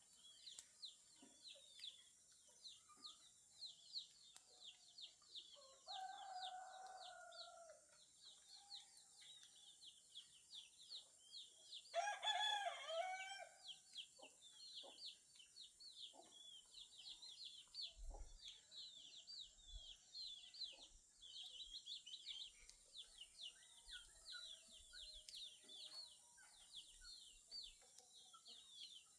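Faint dawn farmyard sounds: a rooster crows loudly about twelve seconds in, after a fainter, lower crow around six seconds in. Rapid high chirping and a steady high hiss run underneath throughout.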